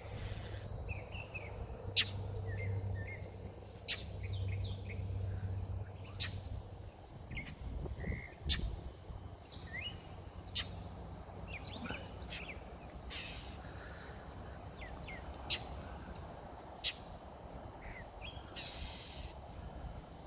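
Birds giving short, scattered chirps, with a handful of sharp clicks standing out above them and a faint steady low hum underneath.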